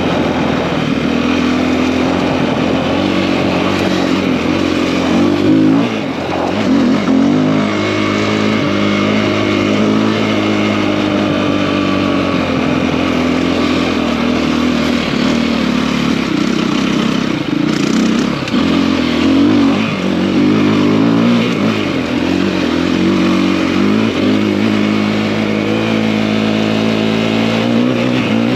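KTM EXC-F enduro bike with a 280 cc big bore kit, its single-cylinder four-stroke engine pulling along on the move. The revs rise and fall as the throttle is opened and closed, with several short rev rises.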